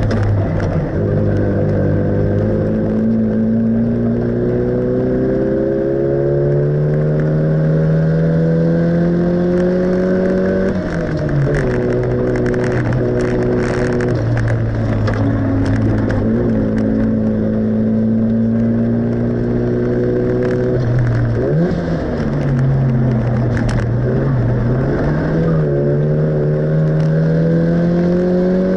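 Classic Mini's engine heard from inside the cabin under hard driving. The engine note climbs steadily for about ten seconds, drops and holds level through the middle, dips briefly around two-thirds of the way in, then climbs again near the end.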